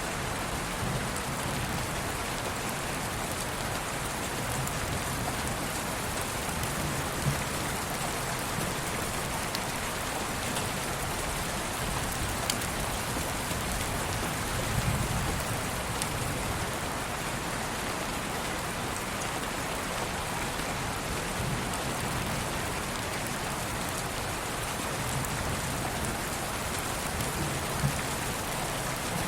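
Steady rain falling, with scattered sharper drops and faint low rumbles now and then.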